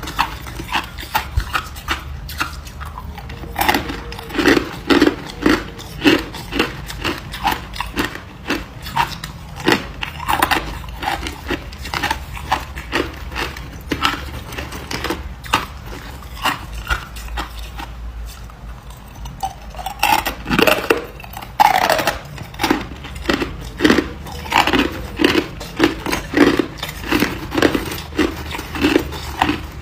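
A person biting and chewing hard ice close to the microphone: quick runs of sharp crunches, several a second, thinning out for a few seconds in the middle before picking up again.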